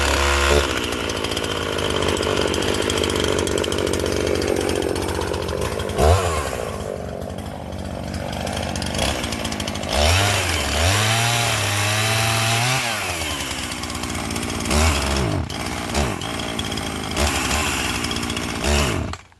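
Chainsaw running and cutting through a branch, revving up and down several times, then the engine suddenly dies near the end. The saw stalls as if out of fuel, though the owner knows it isn't.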